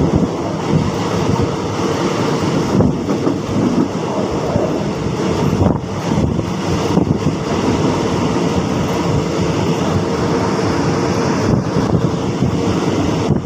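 A passenger train running along the line, heard from inside a carriage: a loud, steady rumble of wheels on the rails.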